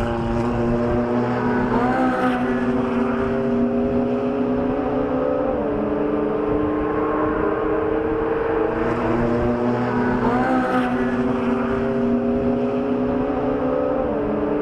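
Car engine running steadily at fairly constant revs, its pitch shifting up and down a few times.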